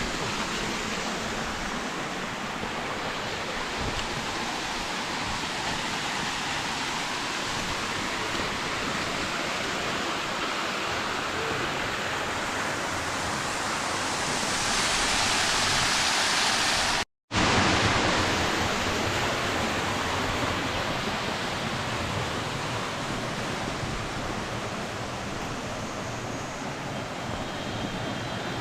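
Waterfall rushing: a steady hiss of falling water that swells louder about fifteen seconds in, with a sudden brief dropout a little later.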